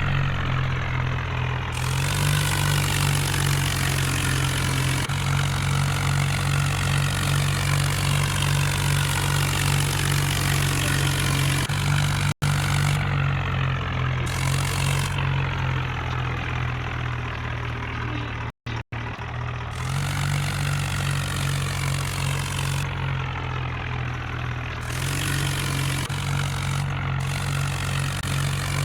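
Tractor engine running steadily at an even low pitch. The sound drops out sharply for an instant three times around the middle.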